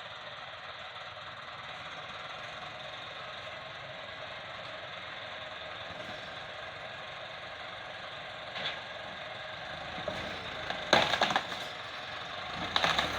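Tractor engine running steadily. A brief knock comes partway through, then loud bursts of clattering knocks about two-thirds of the way in and again near the end.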